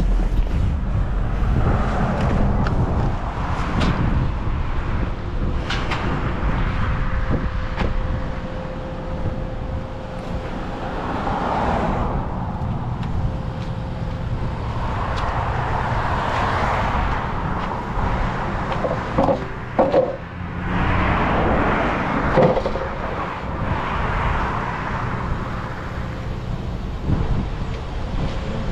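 Steady engine and road noise of a moving semi-truck heard from inside the cab, with a few short knocks about two-thirds through.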